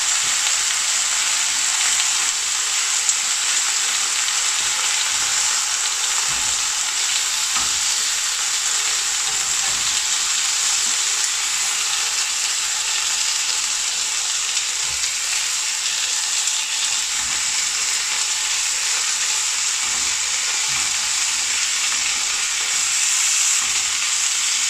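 Chicken tikka and onion skewers sizzling steadily in butter ghee in a hot ridged cast-iron grill pan.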